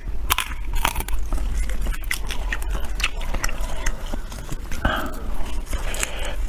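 A person chewing and biting food close to the microphone, with irregular wet clicks and smacks of the mouth.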